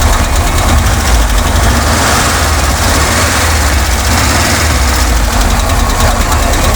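Volkswagen 1600 cc air-cooled flat-four engine idling steadily.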